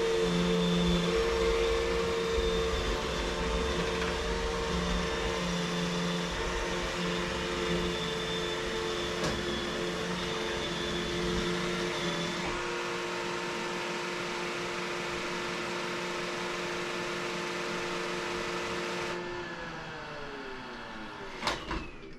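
Vacuum cleaner running steadily, then switched off about nineteen seconds in, its pitch falling as the motor spins down. A couple of knocks follow near the end.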